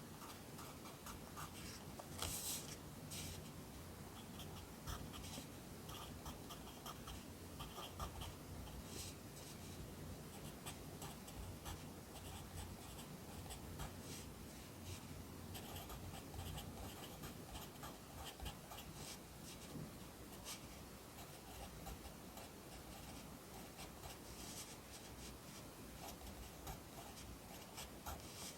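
Pencil writing Korean characters on paper: an irregular string of short, scratchy strokes with brief pauses between them.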